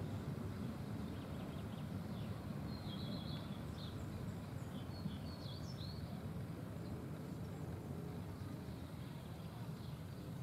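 A bird chirps several times over a steady low rumble.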